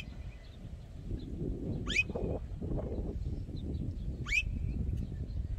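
A bird's sharp, upward-sweeping whistled call, repeated about every two seconds and ending each time on a short held note, over a low steady background rumble.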